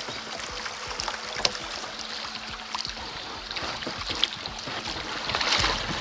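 Kayak paddle strokes splashing and water rushing along the hull, with many small splashes and drips; the water noise grows louder near the end.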